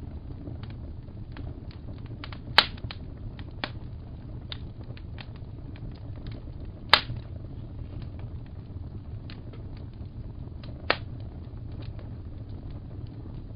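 Fireplace fire crackling: a steady low rumble with scattered small crackles and three louder pops, about two and a half, seven and eleven seconds in.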